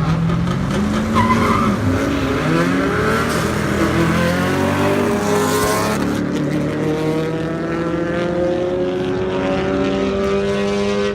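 Drag-race car engines accelerating hard, the pitch climbing and falling back with each gear change in the first half, then one long steady climb in the second half.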